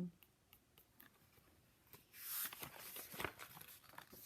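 A picture-book page being turned: a brief papery rustle about two seconds in.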